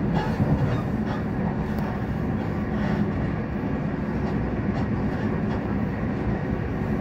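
South Western Railway Class 458/5 electric multiple unit running at speed: steady rumble of wheels on track with a low hum.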